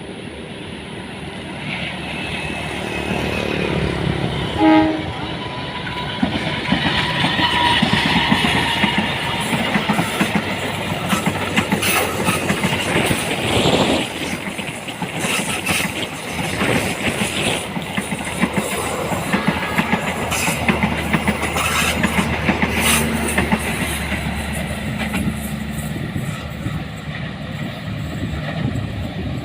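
Trains passing at speed, with a short horn blast about five seconds in, then a run of wheel clacks over the rail joints as the cars go by.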